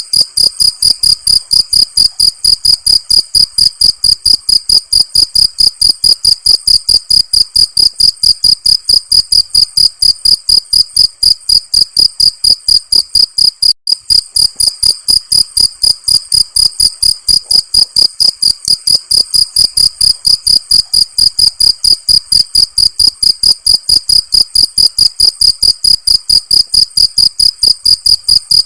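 Cricket chirping: rapid, evenly spaced high-pitched pulses in a steady, unbroken rhythm, with a momentary break about halfway through.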